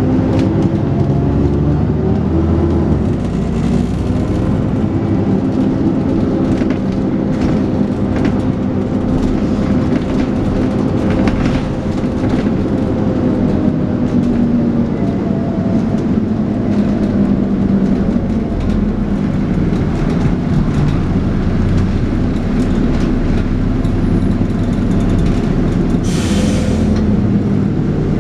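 Dennis Trident 2 double-decker bus engine running under load, with a whine that rises and falls gently and a steady background of rattles. A short burst of air hiss near the end.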